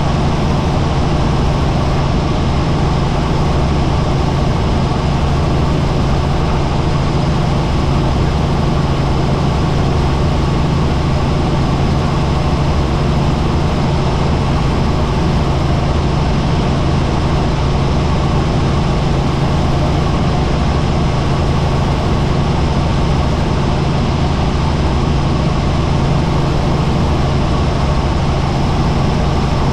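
Helicopter in flight: a loud, unchanging drone of engine and rotor with a strong low hum.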